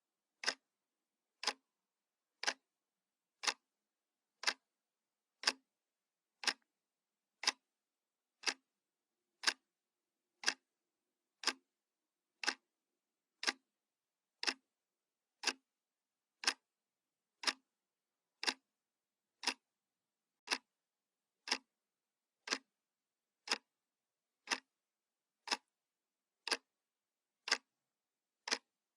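Analog wall clock ticking, one sharp tick each second, with silence between the ticks.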